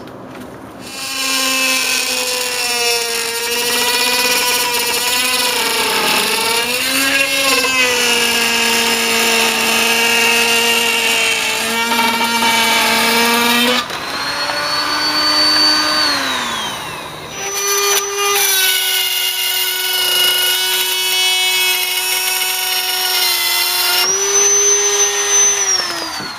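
Roto-Zip spiral saw running at high speed and cutting vinyl nailing fins, its pitch sagging and wavering under load. It cuts off and winds down about 14 seconds in, starts again a few seconds later, and winds down again near the end.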